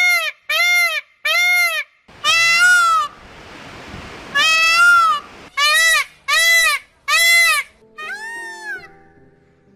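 An animal calling again and again, about ten calls, each rising then falling in pitch. Most are short; two near the middle are longer. Near the end the calls grow fainter and music with held notes comes in under them.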